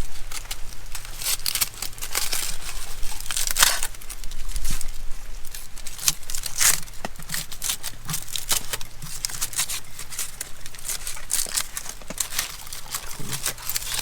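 Aluminium foil crinkling and tearing as it is unwrapped from food cooked in the campfire, in many short, irregular crackles.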